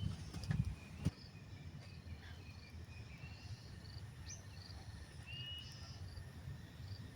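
Quiet countryside ambience: faint, scattered short high chirps over a low steady rumble, with a single sharp knock about a second in.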